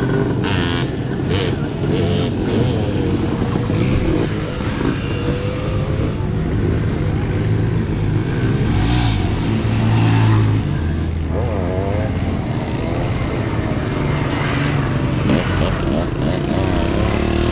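Motorcycle engines running and revving in the street, a steady drone with repeated rises and falls in pitch.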